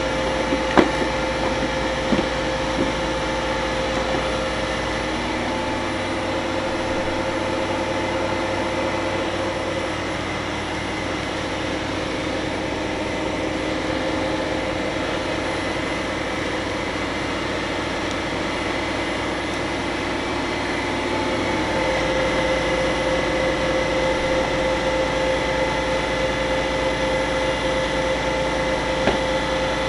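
Steady drone of refrigeration machinery running, with a constant whine over a low hum. The low hum changes from about 5 to 22 seconds in, and a few light knocks come near the start and the end.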